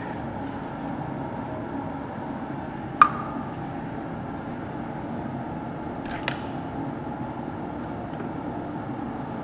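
A sharp metallic clink of a hand tool, ringing briefly, about three seconds in, and a fainter click about six seconds in, over a steady background hum in the shop.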